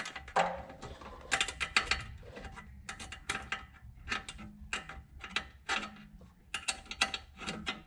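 Socket ratchet clicking in short bursts of rapid ticks as bolts are wound in by hand.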